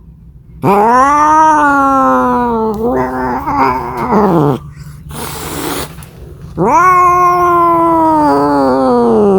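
Domestic cat caterwauling: two long, drawn-out yowls that waver and slide down in pitch, with a short breathy burst of noise between them. This is the kind of yowl a cat makes when calling for a mate.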